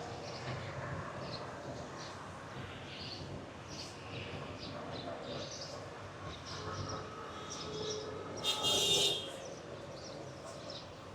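Small birds chirping over a steady background hum, with a brief loud hiss about eight and a half seconds in.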